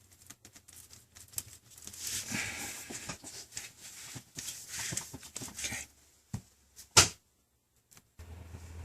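Irregular scraping and crackling as the shattered touch-screen glass of a tablet is worked off its adhesive, with one sharp click about seven seconds in.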